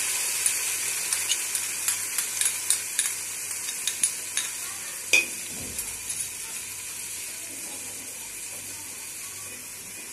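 Onions and whole spices with ginger-garlic paste sizzling in hot oil in a metal pot while being sautéed, stirred with a metal slotted spoon. Sharp clicks and taps come often in the first half, the strongest about five seconds in, then only the sizzle, slowly fading.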